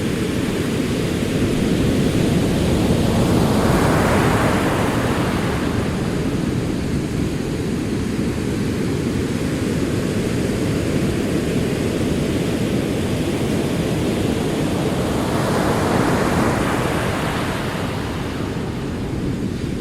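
Ocean waves rolling onto a shore in a continuous wash of surf, swelling twice as waves break, first a few seconds in and again near the end.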